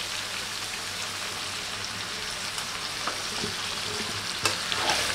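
Marinated chicken pieces and masala sizzling steadily in a steel kadai, with a few light knocks near the end.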